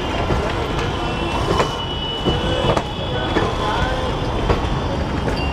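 Passenger coaches of the Falaknuma Express running past on the track. A steady rumble is broken by sharp wheel clacks at uneven intervals.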